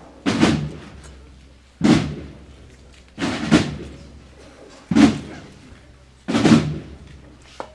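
A drum beaten in a slow, even procession cadence: about five heavy strikes, one roughly every second and a half, each ringing out briefly, with one doubled beat near the middle.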